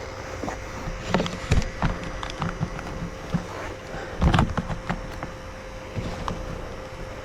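Irregular knocks and clunks, the loudest about a second and a half in and again just past four seconds in, over a faint steady hum.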